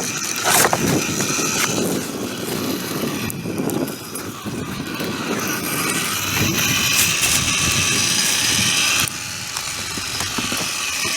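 Wood campfire burning, a steady rushing noise with a few sharp crackles.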